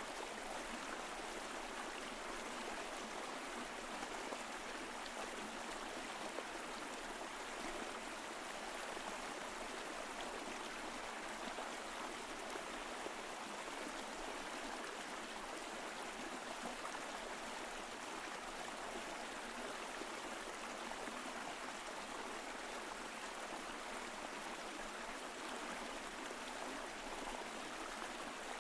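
Mountain stream flowing steadily over rocks, a continuous even rush of water.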